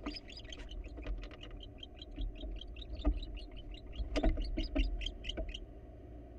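Barn owl giving a fast series of short, high chirruping calls, about five or six a second, which stop about five and a half seconds in, typical of courtship calling at the nest box. A few low knocks come in between.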